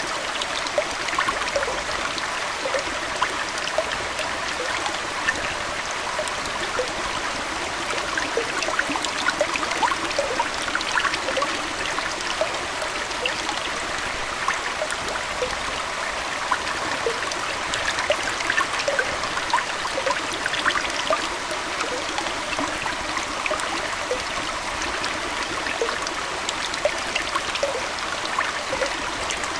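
Aquarium water trickling and bubbling steadily, with many small splashes and bubble pops over a continuous rushing wash.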